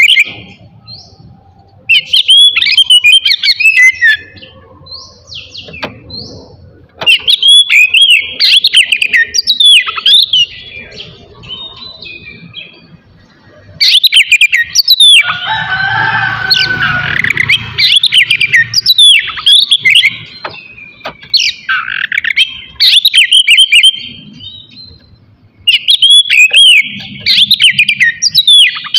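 An Oriental magpie-robin (kacer) singing loudly in phrases of rapid whistles and trills, with short pauses between phrases. A harsher, buzzier stretch comes a little past the middle. This is the full, continuous song of a bird in top singing form ('gacor').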